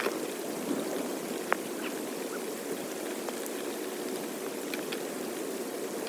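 Floodwater flowing steadily, like a stream pouring, with two sharp clicks about a second and a half apart near the start.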